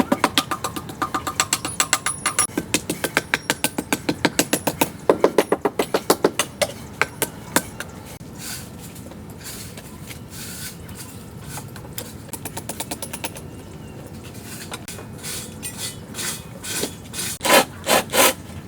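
Rapid back-and-forth rasping strokes of a hand tool on a part, about five a second. After about seven seconds they thin out into quieter steady rubbing, with a few louder strokes near the end.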